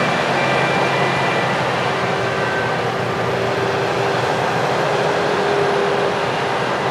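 Heavy farm machinery running steadily at harvest: a continuous engine and machine noise with faint steady whining tones.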